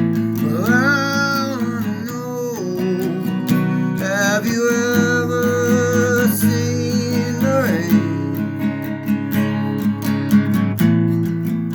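Acoustic guitar strummed in a steady rhythm, with long held melody notes sliding between pitches above it.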